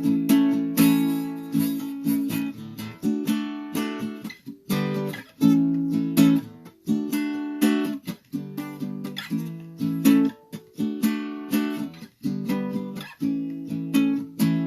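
Solo guitar played in a loose riff: strummed chords ringing and decaying, struck in uneven groups with short pauses between them.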